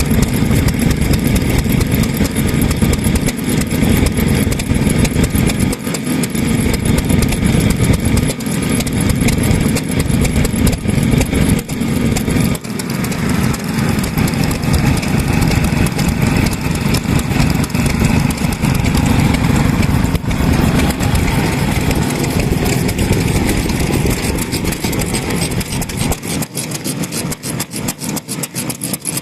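Vintage stationary engines running steadily, a continuous rapid firing rhythm with most of its weight low; the low end eases off over the last few seconds.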